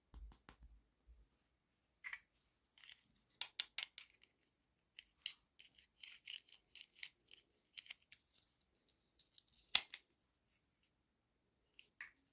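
Toy packaging being handled and opened by hand: scattered small clicks and crinkles of plastic and paper, with one sharp click about ten seconds in.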